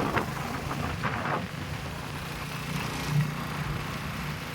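Motorcycle running steadily at road speed with a low engine hum, plus wind and road noise, with a couple of brief louder gusts in the first second and a half.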